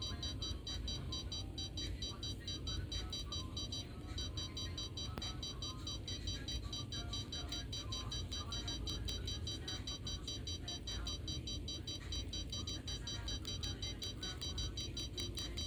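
Electronic music-like sound: a cluster of high tones pulsing evenly several times a second over a steady low rumble.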